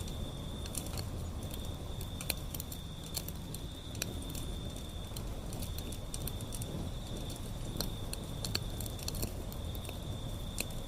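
Wood fire burning: scattered sharp crackles and pops over a steady low rumble of the flames, with a thin high-pitched hiss or whistle that keeps breaking off and starting again.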